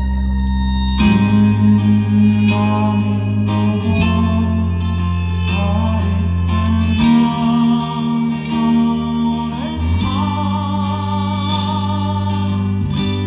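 Live rock band playing an instrumental passage: guitar notes over held bass notes that change about every three seconds, with a sliding note near ten seconds and a lead line with wide vibrato toward the end.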